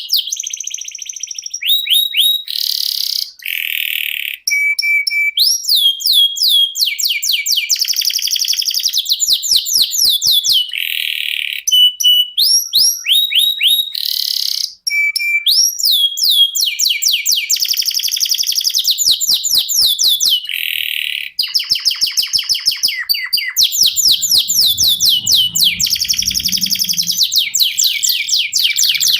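Domestic canary singing a long, almost unbroken song of rapid rolling trills. Its phrases change every second or two, between fast repeated notes and brief held whistles.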